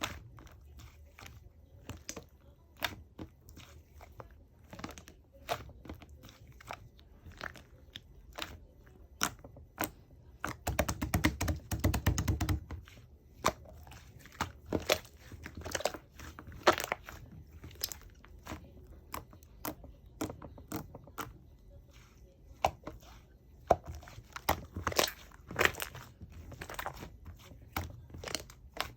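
Yellow slime being squished and poked by hand, giving crisp irregular clicks and pops. About eleven seconds in comes a rapid run of pops lasting about two seconds.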